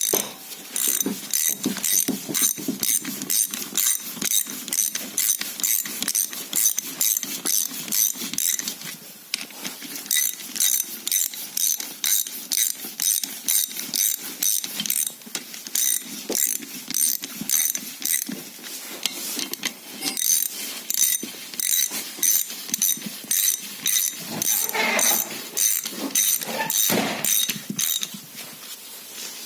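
Ratchet clicking in steady runs at about three clicks a second, with two short pauses, as a ratchet mechanism is worked during a truck brake caliper repair.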